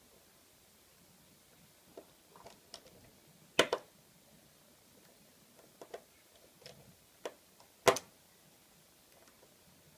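Scattered sharp clicks and taps of small repair tools against an iPhone 5's parts, irregular and quiet between, with two louder clicks around three and a half and eight seconds in.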